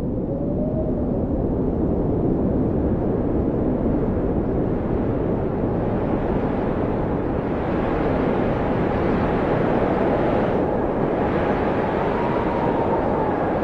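Blizzard wind blowing hard: a dense, steady rushing noise with faint whistling howls that rise and fall in pitch. A stronger gust swells about halfway through.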